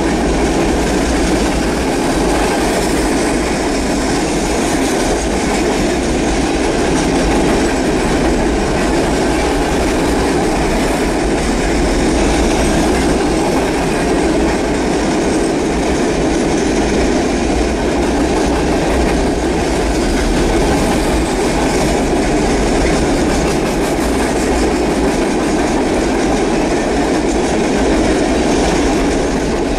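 Norfolk Southern train's cars rolling past close to the track, a steady loud rumble of steel wheels on rail with no letup.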